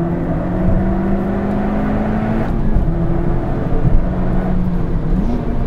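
Toyota Yaris GRMN's supercharged 1.8-litre four-cylinder pulling hard, heard from inside the cabin, with the supercharger's sound heard directly. The engine note climbs slowly, dips about two and a half seconds in, then holds and rises again near the end.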